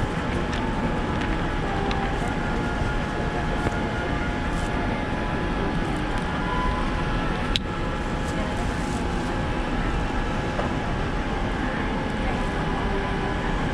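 Steady cabin noise inside a Boeing 787-9 airliner, the low rush of the engines and air system, with a single sharp click about halfway through.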